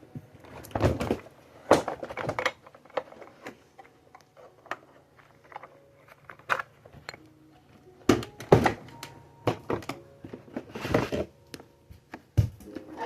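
Irregular thunks and clicks of the hard plastic housing of a Bissell PowerForce Bagless Turbo vacuum being handled as its base is taken off, with the motor not running.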